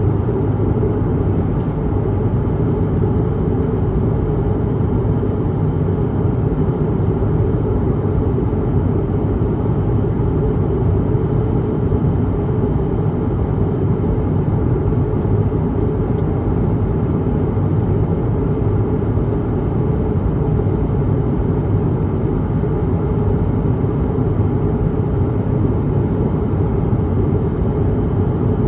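Steady in-cabin noise of an Airbus A220-300 in flight: a constant low rumble of its Pratt & Whitney PW1500G turbofan engines and rushing air, heard through the cabin wall.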